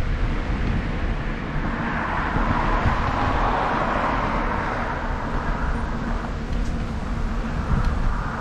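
Wind rumbling on the microphone of a moving bicycle, while a passing vehicle's tyre and road noise swells and fades in the middle.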